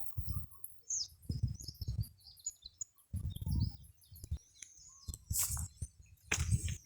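Small birds chirping in short high calls, over repeated dull low thumps and rustling close by.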